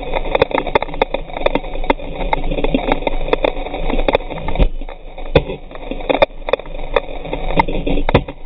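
Strong wind buffeting the microphone on a sailing catamaran, a dense rushing noise broken by many sharp knocks and thuds.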